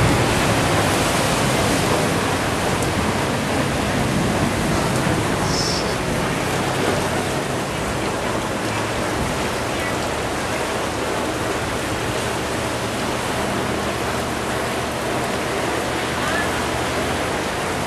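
Steady, even hiss of heavy storm rain and rushing floodwater.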